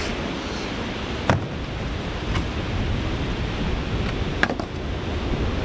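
Strong wind buffeting the microphone as a steady, heavy rush, with two sharp knocks, one about a second in and one past the middle.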